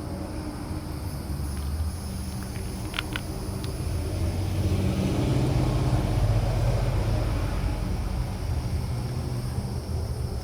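A passing road vehicle: a low rumble that swells to a peak around the middle and then fades away.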